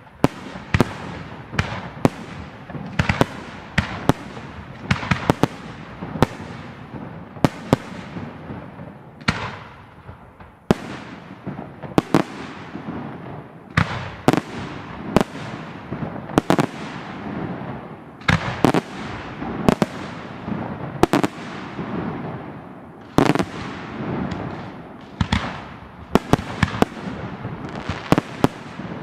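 Professional fireworks display: firework bursts going off in quick succession, about one or two sharp bangs a second, each trailing off in an echo.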